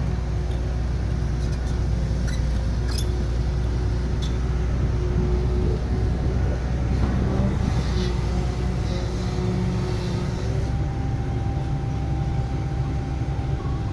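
Diesel engines of heavy construction machinery running steadily, with a few short sharp clicks in the first few seconds.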